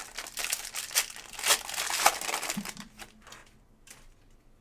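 Foil trading-card pack wrapper being torn open and crinkled by hand, a dense crackling that is loudest in the middle and dies away after about three seconds.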